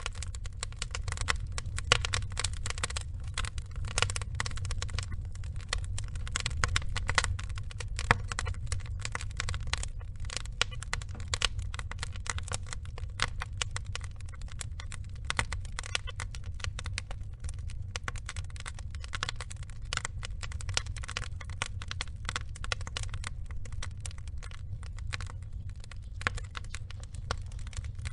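Burning wood logs crackling densely and irregularly, with a few louder pops, over a steady low rumble.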